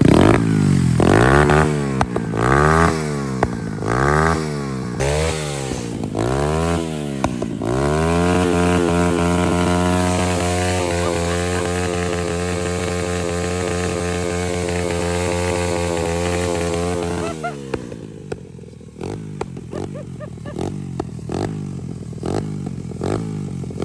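Pit bike engine, running on a freshly fitted budget carburettor kit, revving up and down about six times in quick blips, then held at a steady speed for about ten seconds before it drops away about seventeen seconds in.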